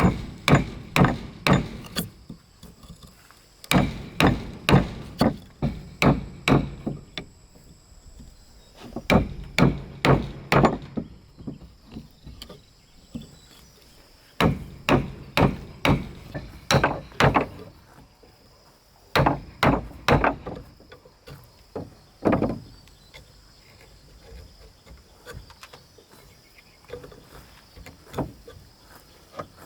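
Hammer blows on wood in runs of several strikes, about two to three a second, with pauses between the runs. Insects keep up a steady high buzz behind them.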